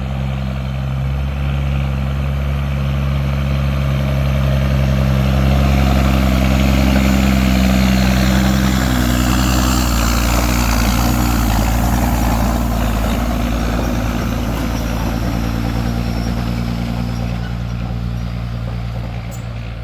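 Truck engine running steadily under way, with road and wind noise, swelling a few seconds in and easing off slowly after.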